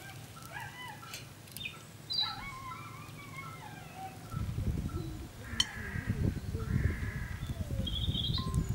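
Outdoor birds calling, with several short chirps and curving calls in the first three seconds. From about four seconds in, a louder, uneven low rumble rises under a few more calls.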